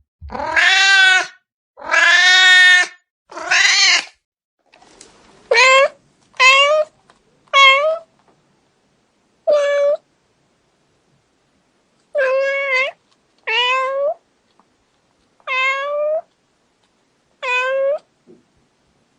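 Domestic cat meowing: three long, drawn-out meows in the first few seconds, then eight shorter meows at intervals of one to two seconds, each starting with a quick rise in pitch.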